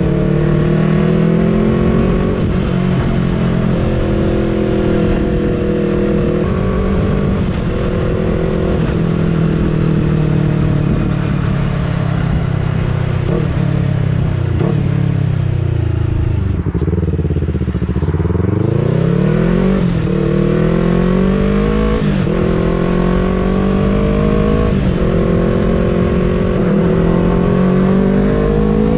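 Yamaha R3 motorcycle's parallel-twin engine under way, its pitch climbing in short ramps as it pulls through the gears. A little past halfway the revs fall away in a long glide as it slows, then climb again as it accelerates.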